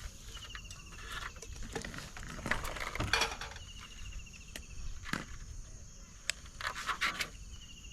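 Insects droning steadily in the background, with a short, fast-pulsed trill that repeats about every three and a half seconds. Scattered clicks and knocks of things being handled are mixed in.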